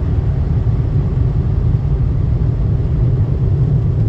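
Car-wash air dryer blowers running, heard from inside the car as a loud, steady low rumble.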